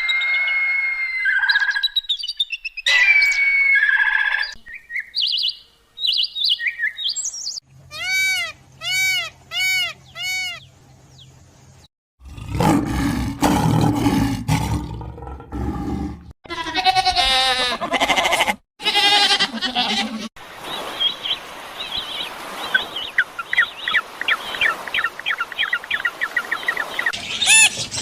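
A sequence of different wild animal calls, one short clip after another. High chirping calls come first, then five arching calls in a row, then a loud, low roaring stretch, more calls, and finally a long run of rapid chirps.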